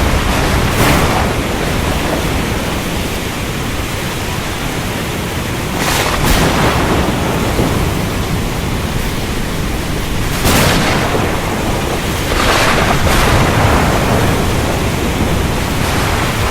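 Thunderstorm: steady, heavy rain with thunder, and short sharp cracks rising above it about a second in, around six seconds, around ten and a half, and twice near thirteen seconds.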